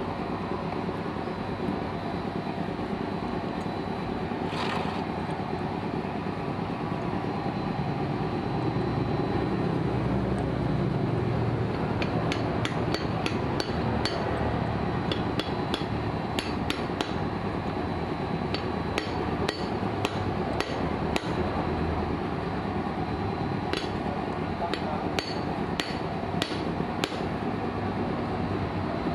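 Hammer tapping on metal parts of a small outboard motor, an irregular series of sharp taps starting about twelve seconds in, over a steady background noise.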